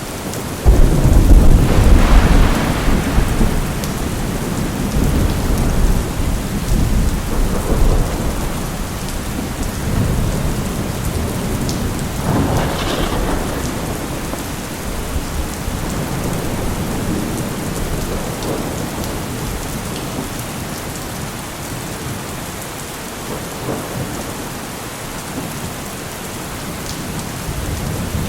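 Thunderstorm: steady rain with a thunderclap under a second in that goes on rumbling in swells and slowly dies away, and another rumble of thunder building near the end.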